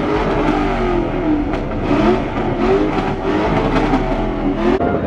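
Car engine revved hard over and over, its pitch rising and falling several times in quick succession, with short sharp cracks scattered throughout.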